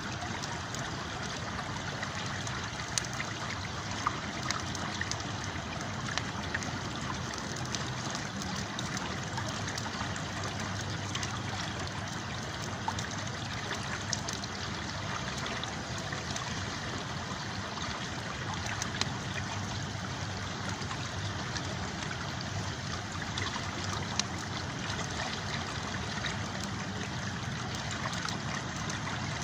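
River water flowing steadily, with occasional sharp pops and crackles from a campfire over it.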